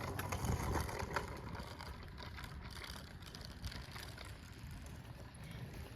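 Steady low rumble of wind and tyres on pavement while riding a bicycle, easing off a little over the first couple of seconds.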